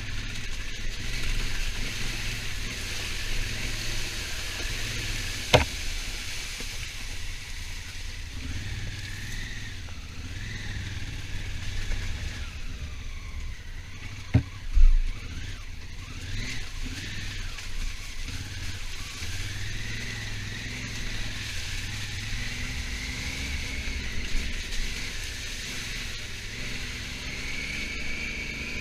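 Honda Africa Twin motorcycle riding along, its engine note rising and falling, over a steady low rumble. Two sharp knocks come through, about five seconds in and again about halfway through.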